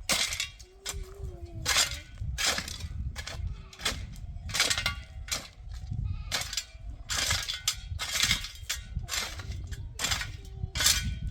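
Sheep bleating in short wavering calls, with many sharp, irregular knocks.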